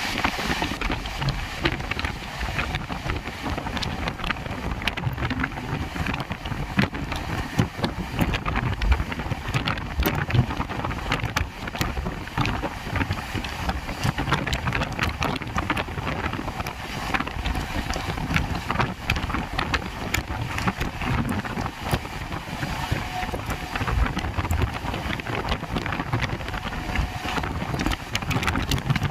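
Train in motion: a steady rumble with many scattered small clicks and rattles throughout.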